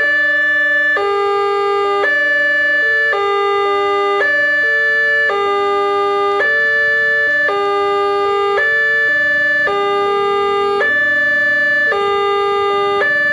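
Wantech railway level-crossing alarm sounding its electronic two-note chime, a higher and a lower note taking turns about once a second, steady and loud. It is the warning that a train is approaching the crossing.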